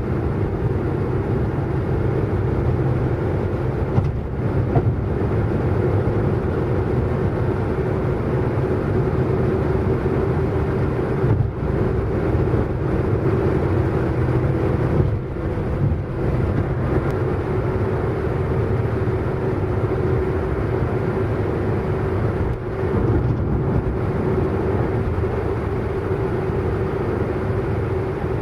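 A car driving at speed: a steady engine drone over continuous road and tyre noise, with a few brief dips in level.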